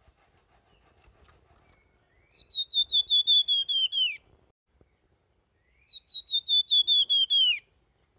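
Flamboyan songbird singing two flute-like whistled phrases, each a quick run of repeated clear notes that drops in pitch at the end; one phrase starts about two seconds in, the other about six seconds in.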